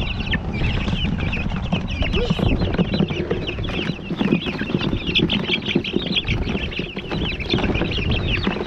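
A flock of chickens calling without pause, a dense chatter of short, high cheeps over a low rumble. The birds are panicked after being put into a new coop.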